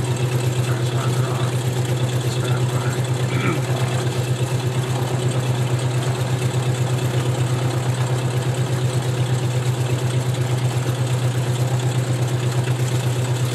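Cessna 172RG's four-cylinder Lycoming piston engine idling steadily after landing, heard inside the cabin as a low, even, fast-pulsing drone.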